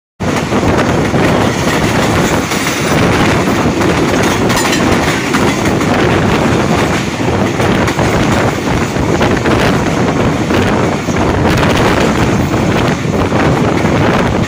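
Passenger train running at speed, heard from an open coach doorway: a loud, steady rush of wheels on rail and air.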